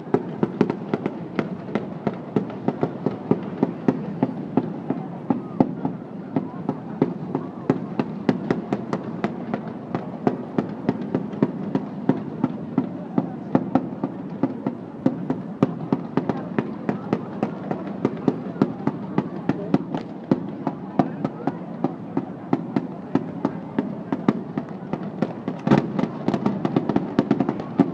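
Fireworks display: a steady barrage of sharp bangs and crackles, several a second, with a louder, denser cluster near the end.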